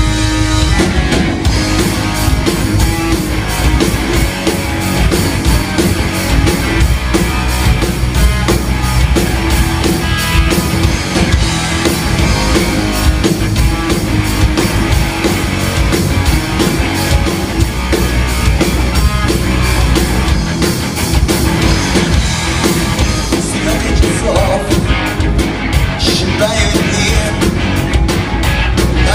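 A rock band playing live, with electric guitars, bass and drum kit in a loud, driving instrumental section.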